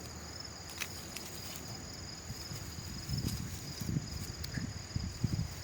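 Insects trilling steadily in a high, slightly pulsing tone, with low irregular rumbling joining in from about three seconds in.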